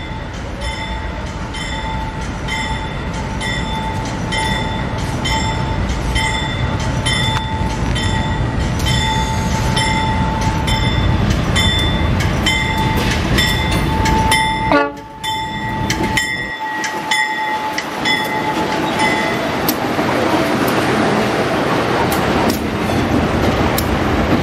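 A level-crossing warning bell rings about twice a second over a steady tone as a container train led by a GE U20-C diesel-electric locomotive approaches. The bell stops about three-quarters of the way through, and the locomotives' engine and wheel noise grows louder as they pass close by.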